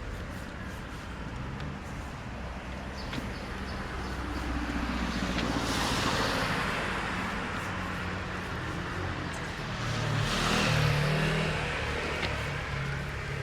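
Two cars passing one after another, each swelling up and fading away over a few seconds, their tyres hissing on wet road, over a low hum of traffic.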